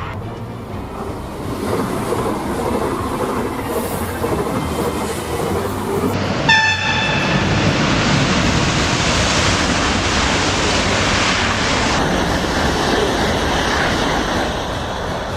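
Train running on the rails with steady noise, and a short horn blast about six and a half seconds in. The running noise is louder after the horn.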